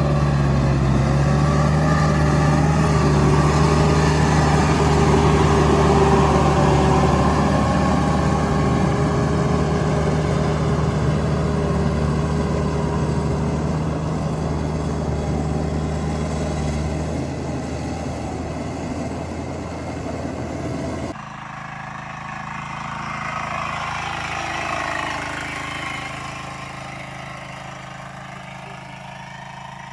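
Engine running steadily. About two-thirds in, the sound cuts abruptly to a quieter engine.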